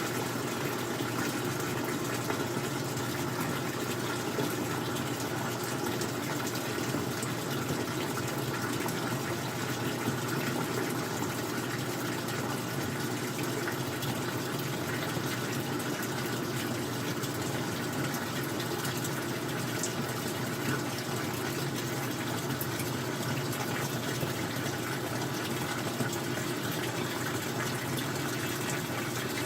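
Old-style front-loading washing machine running with a steady rush of water and a faint hum, unchanging throughout.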